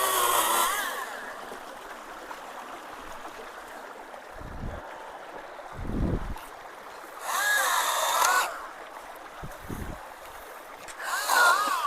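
Chainsaw run in three short bursts, its pitch rising and falling within each, as a root is cut, with a few low thumps in between, over the steady sound of water flowing through the culverts.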